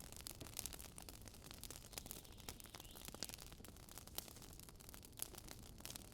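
Wood campfire crackling: a steady scatter of small, irregular snaps and pops over a faint hiss of burning.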